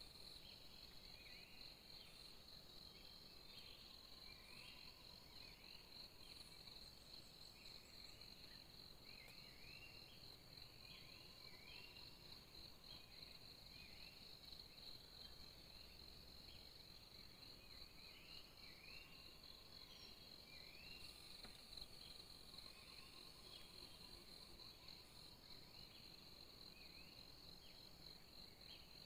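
Faint forest insects: a steady, high cricket-like trill, with shorter chirping calls repeating every second or so underneath.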